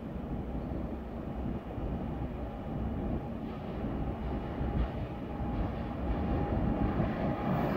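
Freight train approaching through a station: a low rumble growing steadily louder as it nears.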